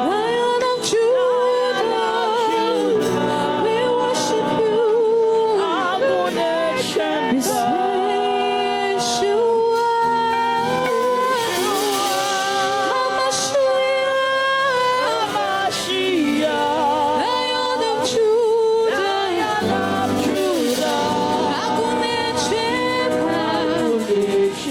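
Worship music: a lead singer sings long, wavering held notes over instrumental backing.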